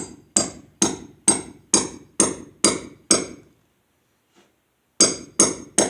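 A hammer drives a 3/8-inch steel concrete wedge anchor down into a drilled hole in a concrete slab, each strike a sharp metallic ring. There are about two strikes a second for roughly three seconds, a pause of about two seconds, then three more strikes.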